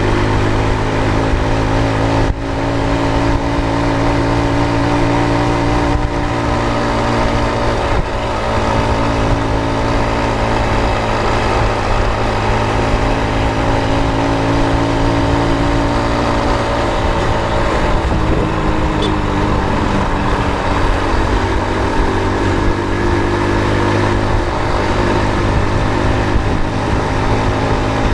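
Motor vehicle engine running steadily under way with road noise; its pitch dips and then rises again about eighteen seconds in.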